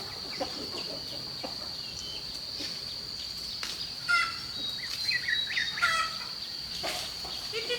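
Chickens clucking and chirping, with short calls picking up about halfway through, over a steady high-pitched drone.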